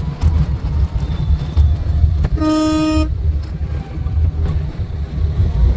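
Maruti Suzuki Omni van driving at speed, a steady low rumble throughout. About halfway through, a vehicle horn gives one short, steady beep of about half a second.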